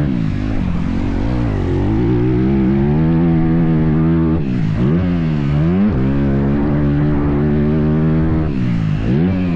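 Motocross dirt bike engine revving hard, the pitch climbing and then dropping away sharply several times as the throttle is opened and shut, most deeply around the middle and near the end.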